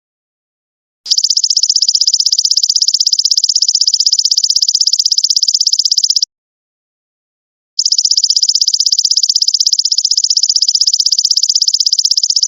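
Golden locust (belalang emas) insect calling: a high, rapidly pulsing buzz. It comes in two long phrases of about five seconds each, with a pause of about a second and a half between them.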